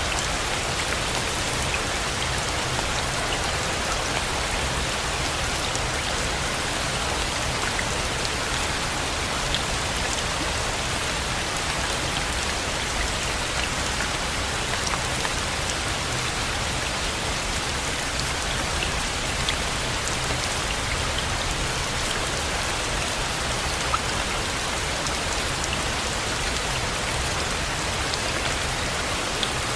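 Steady rain: an even hiss with faint scattered drop ticks, and one sharper drip about two-thirds of the way through.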